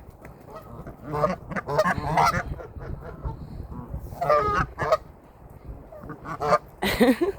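Geese honking in a string of separate calls, with the loudest near the end, as the flock squabbles over scattered feed.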